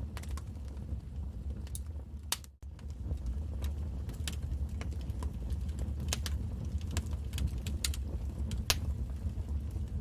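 Wood fire crackling in a fireplace: irregular sharp pops and snaps over a low steady rumble, with a brief drop to near silence about two and a half seconds in.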